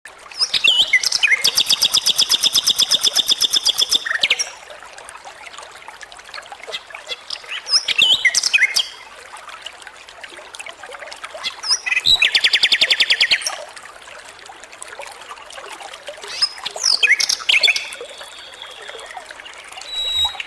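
A flycatcher (sikatan) singing in four loud bursts, about a second in, at about eight, twelve and seventeen seconds. Each burst mixes quick sweeping whistles with a fast buzzy trill, and a faint hiss fills the gaps between them.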